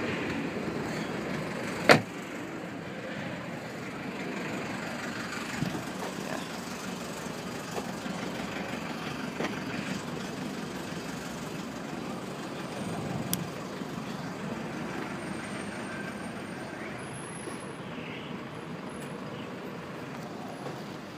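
Steady background rumble and hiss with one sharp, loud knock about two seconds in, and a few lighter knocks later, typical of car panels being shut.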